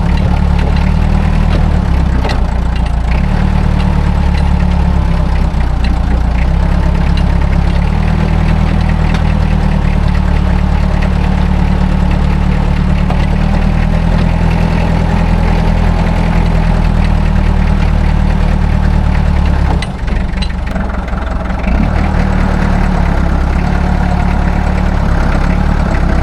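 An engine running steadily at idle, with a brief dip in level about twenty seconds in.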